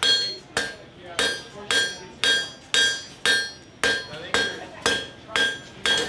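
Blacksmith's hammer striking metal on an anvil in a steady rhythm, about two blows a second, each blow ringing.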